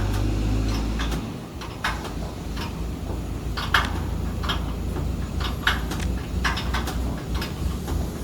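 Irregular metallic clicks and knocks from parts being adjusted on a machine, over a low mechanical hum that cuts out about a second in and comes back shortly after as an uneven rumble.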